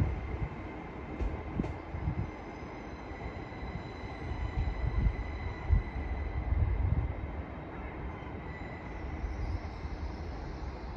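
LNER Class 801 Azuma train arriving at a platform: a low rumble of the wheels on the rails, rising and falling, under a steady high-pitched squeal.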